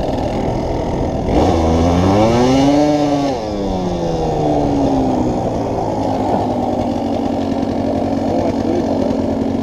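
Pit bike engine revving up once, its note climbing for about two seconds and then falling back, before settling into a steady idle.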